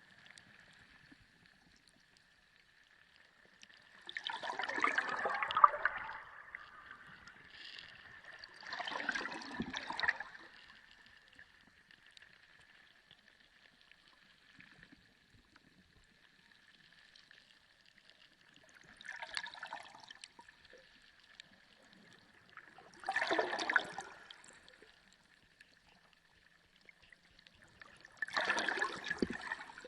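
Water gurgling and sloshing in five short surges of a second or two each, spaced unevenly, over a faint steady high-pitched tone.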